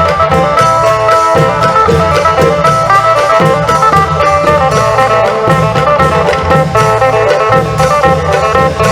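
Isan folk music: a phin (plucked lute) playing a quick melody of rapidly changing notes over a steady beat of klong yao long drums and other percussion.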